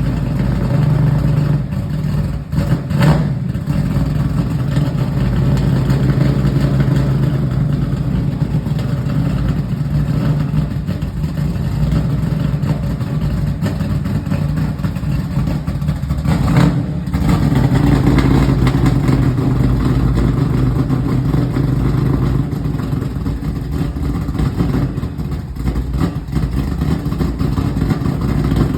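Chevrolet Camaro engine running through a newly fitted exhaust, with a steady low drone. It changes briefly twice, about two and a half seconds in and about seventeen seconds in.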